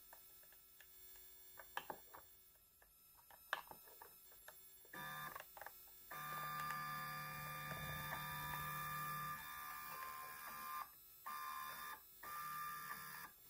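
A small electric motor whining at a steady pitch, starting about five seconds in and cutting out and restarting a few times, after a handful of faint clicks.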